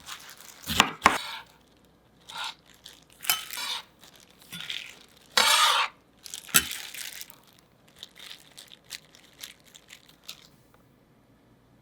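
Kitchen work at the counter: knocks and clinks of dishes and utensils with short rustles, one longer swishing burst about five seconds in, then a few light clicks tapering off.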